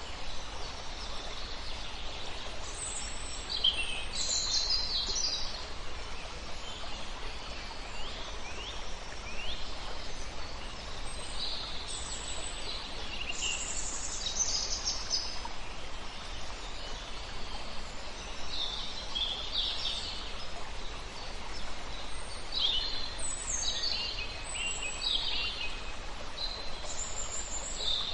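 Several songbirds singing short, high phrases over the steady rush of flowing river water.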